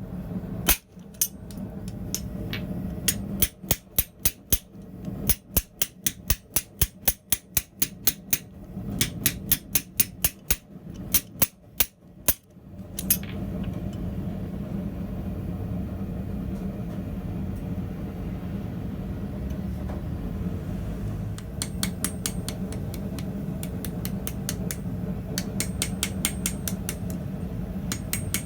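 Hand hammer striking hot steel rod on an anvil in quick runs of blows, about three or four a second, for the first dozen seconds. A steady rushing noise follows for several seconds, then lighter, ringing hammer taps resume near the end.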